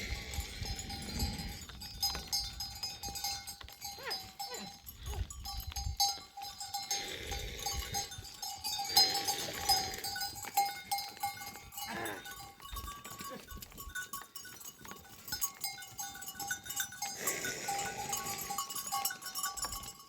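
Livestock bells clinking steadily among a herd of animals, with a few louder animal calls.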